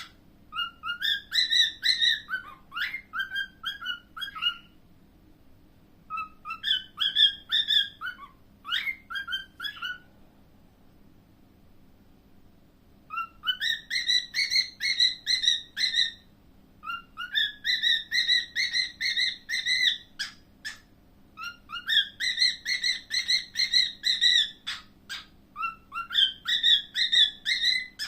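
Cockatiel chirping and whistling in rapid runs of short, bright notes. It falls silent briefly about five seconds in and again for a few seconds near the middle, then resumes.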